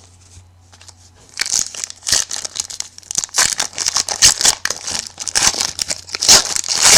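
Foil trading-card pack wrapper being torn open and crinkled in the hands: dense, irregular crackling that starts about a second and a half in and carries on to the end. A low steady hum runs underneath.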